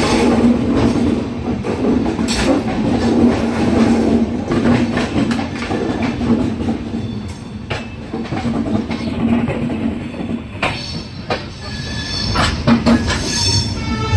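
Express train's coaches running out of a station, heard from an open coach doorway: a steady rolling rumble with sharp clicks over rail joints and points, and a wheel squeal near the end.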